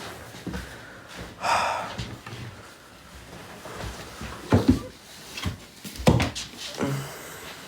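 A brief rustling burst about one and a half seconds in, then several sharp knocks and thuds, a pair close together near the middle and more in the last couple of seconds.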